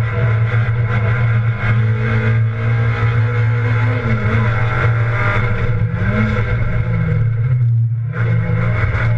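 Rally car engine heard from inside the cabin, running hard under load with its pitch wavering as the revs change. There is a brief drop about eight seconds in, like a lift off the throttle or a gear change.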